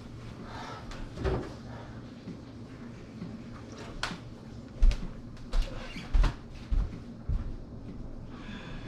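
Scattered knocks and bumps, as of things being handled, with a cluster of louder thumps about five to seven seconds in.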